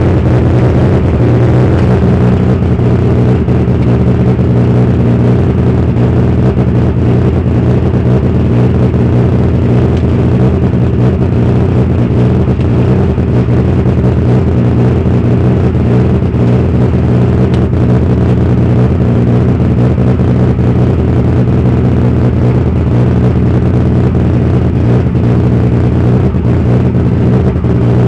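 Car engine running at a steady speed, an even low drone with no revving up or down.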